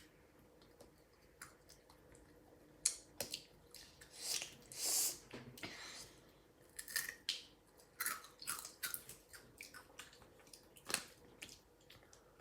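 Chewing and crunching of Takis rolled tortilla chips: many irregular, uneven crunches, with a longer hiss about four to five seconds in.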